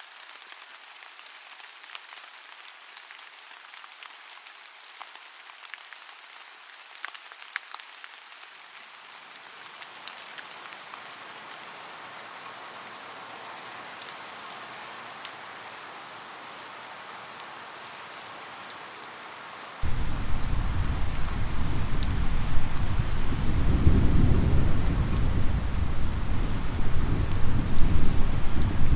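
Rain falling, light at first with scattered drips. It thickens after about nine seconds. About two-thirds of the way through, a deep rumble of thunder comes in suddenly and the sound gets much louder.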